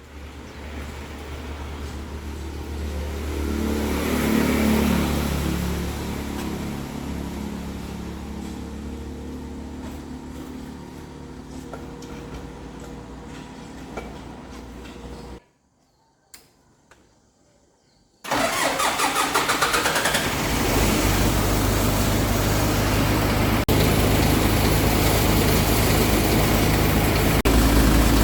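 A low engine hum, broken just past halfway by a few seconds of near silence. Then the dump truck's engine cranks, catches and runs steadily, getting louder near the end: the truck starting now that its broken circuit breaker has been replaced.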